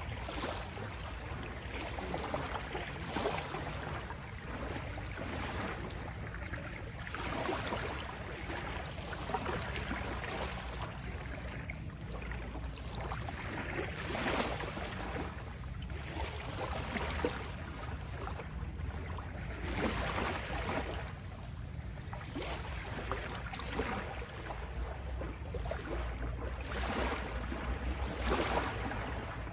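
Small sea waves lapping and washing on a shore, a continuous noisy wash with a new swell every second or two over a low steady rumble.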